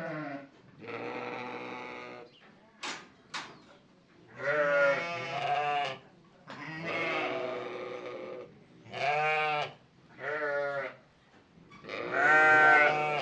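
Farm animals bleating: about six separate wavering bleats, each half a second to a second and a half long, with two short clicks about three seconds in and the loudest bleat near the end.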